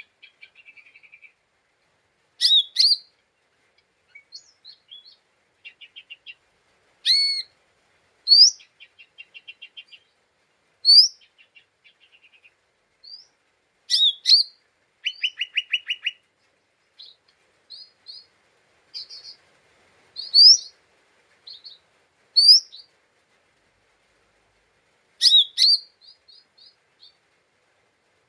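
Lesser green leafbird (cucak ijo mini) calling: short, sharply rising whistled notes every second or two, between fast, buzzy chattering trills (ngeriwik). This is a lure song for provoking other leafbirds into singing.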